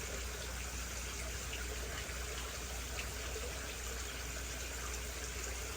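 Water running steadily into a pond as it is filled from another tank, with a low steady hum underneath.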